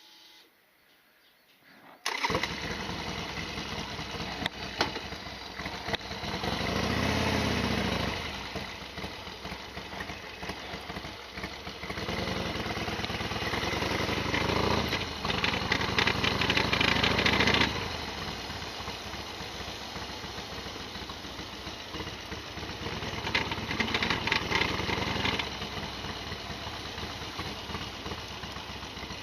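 Modified Harley-Davidson Sportster XL1200R's 1200 cc V-twin starting about two seconds in, then running and revving in several louder swells, with the mechanical rattling that the owner calls its usual noisiness.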